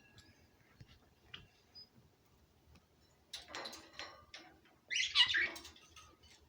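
Pet birds calling in short, scratchy bursts: a few faint clicks at first, then a run of calls about three seconds in and the loudest call about five seconds in.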